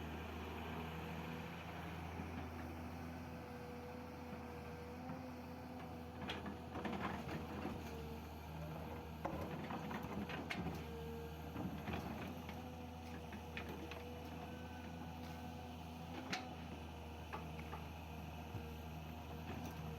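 L&T Komatsu excavator's diesel engine running steadily under work, with a few short knocks and clatters from the loading now and then.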